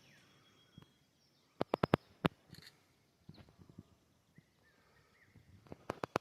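Quiet outdoor morning ambience with faint bird chirps, broken twice by a quick run of sharp clicks or knocks: four about two seconds in, three more near the end.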